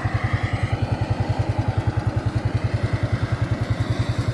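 A motor running steadily, like an engine idling, with an even low throb of about a dozen pulses a second.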